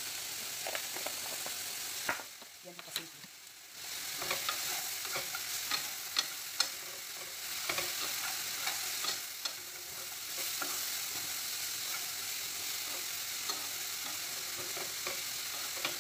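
Sliced bitter gourd sizzling in oil in a frying pan while being stirred with a spoon, the spoon clicking and scraping against the pan. The sizzle drops away briefly about two seconds in, then comes back with a quick run of clicks from the stirring.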